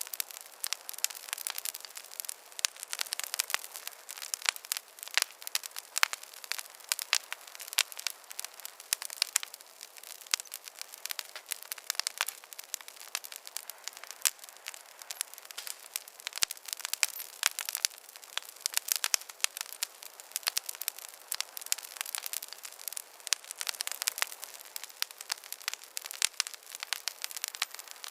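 Wood campfire crackling, with many sharp pops and snaps over a soft hiss.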